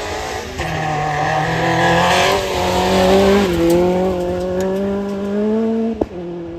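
Rally car engine accelerating hard, its note climbing and dropping back at each of three upshifts, with a short sharp crack at the last shift near the end.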